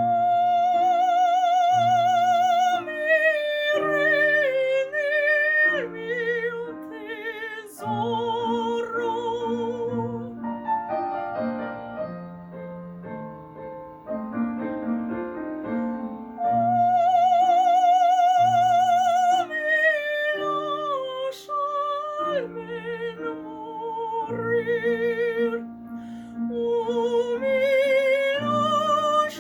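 A classically trained voice singing in operatic style, holding high notes with a wide vibrato, over piano accompaniment.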